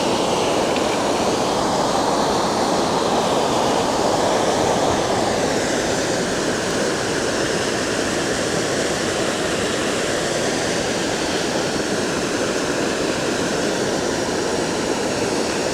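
A waterfall flowing pretty good: a steady, even rush of falling water.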